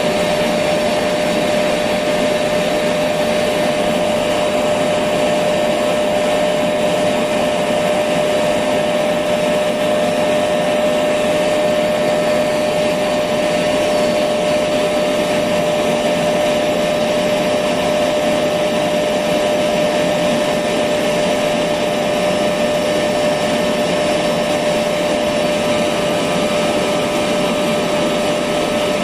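Electric vacuum cleaner running steadily: a constant rushing hum with a steady whine, unchanging throughout.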